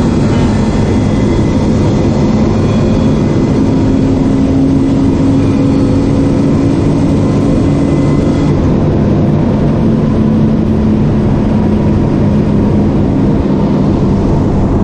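BMW E36 328i's 2.8-litre straight-six running hard at speed, heard from inside the stripped-out cabin. Its note climbs slowly, then drops about eight and a half seconds in and carries on lower and steadier.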